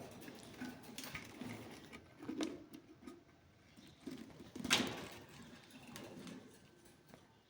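Parrot making soft, low calls, with scattered clicks and taps; the loudest call comes a bit under five seconds in.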